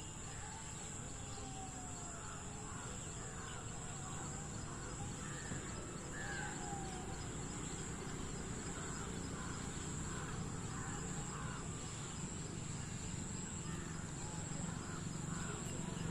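Outdoor ambience: many short bird calls repeat throughout over a steady, high insect drone, with a low rumble underneath.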